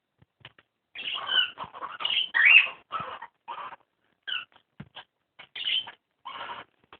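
Baby raccoon screaming: a run of short, high, wavering cries, several a second, starting about a second in. The owner takes the crying for hunger.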